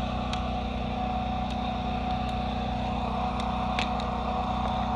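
A generator engine running steadily: an even, low hum with a constant higher whine and a few faint clicks.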